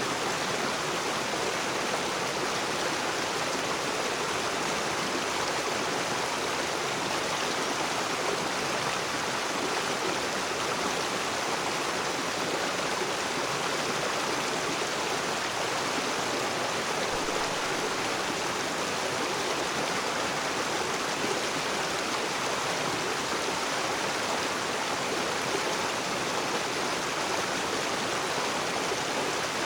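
River water rushing and splashing over rocks, a steady, even rush with no breaks.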